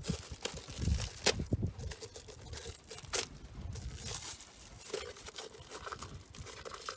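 Plastic wrapping crinkling and tearing as a new fuel filter is unwrapped, with a few sharp crackles.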